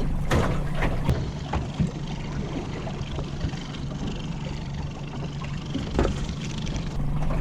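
Knocks and handling noise on a small boat, over a steady low hum and wind on the microphone.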